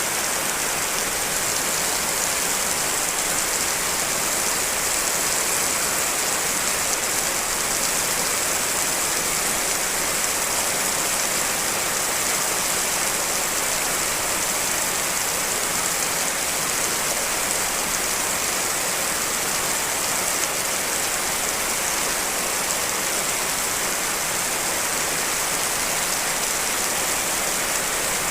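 Steady rain: several real rain recordings layered into one constant, even hiss, with no breaks or changes.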